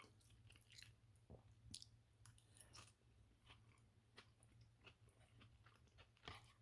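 Faint chewing and soft mouth clicks from someone eating a microwaved chicken marsala dinner, coming at irregular moments over a steady low hum.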